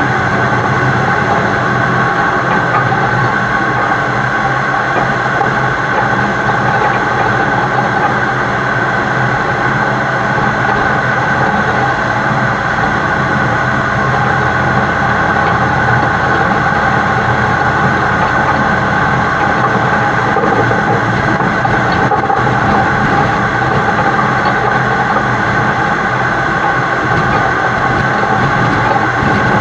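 Steady, unbroken running noise of a heavy-haul truck pulling a super load, heard from a camera mounted on the truck's side, with several constant whining tones over a rumble.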